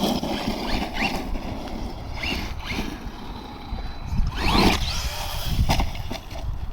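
RC monster truck's electric motor revving in several short bursts, each a quick rising whine, the loudest about four and a half seconds in, over a steady rushing background.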